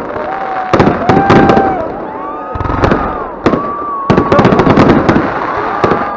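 Fireworks display going off: a rapid string of sharp bangs and crackling bursts, with drawn-out whistling tones sounding between the bangs.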